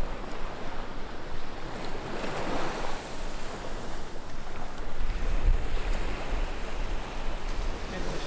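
Ocean surf washing onto a beach, with wind gusting on the microphone, strongest about five seconds in.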